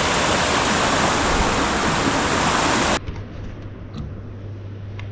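Waterfall rushing steadily. It cuts off abruptly about three seconds in, leaving a much quieter background with a low hum and a few faint ticks.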